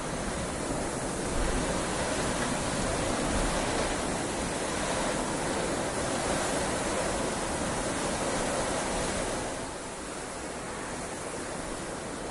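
Heavy rain falling steadily, swelling a little about a second in and easing slightly near the end.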